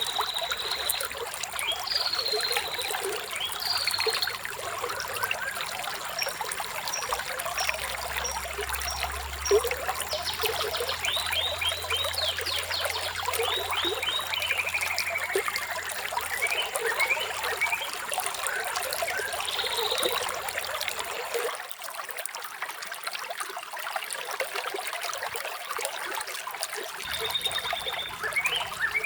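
Running water trickling steadily, with several songbirds chirping over it in short calls, quick trills, a run of high repeated notes and a falling whistle.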